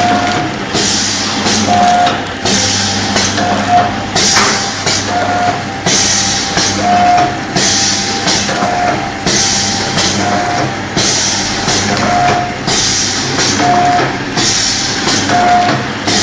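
Automatic liquid-filling and plastic-bag packaging machine running through its cycles, about one every 1.7 seconds. Each cycle has a hiss lasting about a second and a short steady tone, over a constant low hum.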